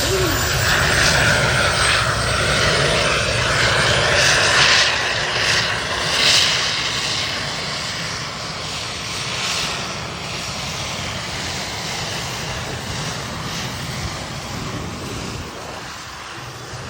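Aircraft engine fitted to a modified tractor, running loud and steady. It eases off about seven seconds in and keeps running at a lower level.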